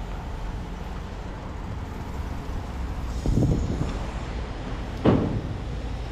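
Vehicle engine running with a steady low rumble, with a clattering knock about three seconds in and a sharper bang about five seconds in.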